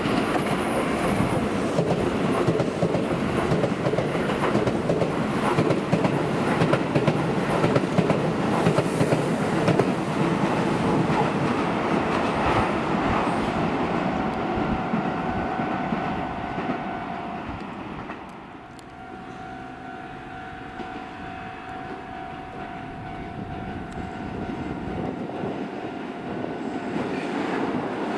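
Keisei Line electric train running past on the track, loud with rapid clickety-clack of wheels over rail joints. The noise fades away after about 17 seconds, leaving a steady pitched tone, and builds again near the end.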